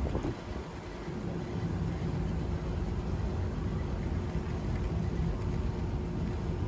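A steady low vehicle-like rumble with a faint steady hum over it. It grows a little louder about a second and a half in.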